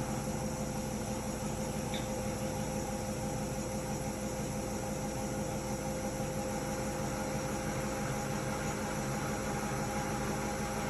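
Hotpoint-Ariston RSG 825 J washing machine running steadily: a constant motor hum with a few steady whining tones over a noisy rush, unchanging in speed.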